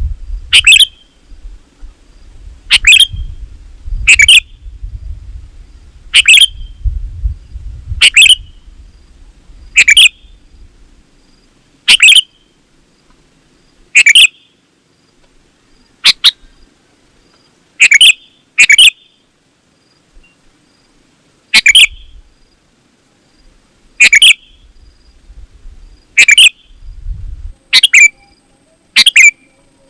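Sooty-headed bulbul (kutilang) calling: short, loud, high chirping phrases repeated about every two seconds, now and then two in quick succession. A low rumble runs under the calls for the first third and briefly near the end.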